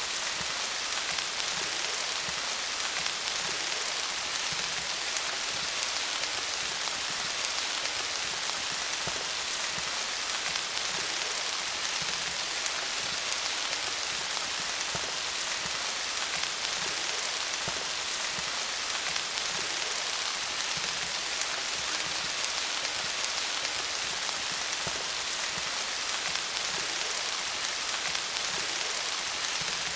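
Steady rain falling on leaves: an even patter of many small drops, with no thunder or gusts.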